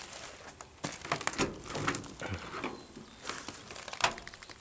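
Irregular crunching and crackling, like footsteps on dry ground and brush, several uneven steps.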